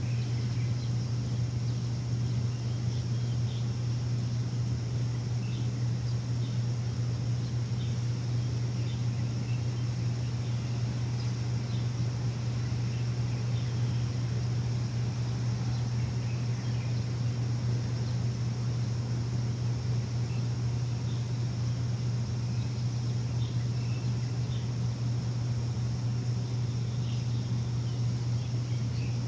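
A machine giving a steady, unbroken low hum, with scattered short bird chirps and a steady high-pitched insect-like drone over it.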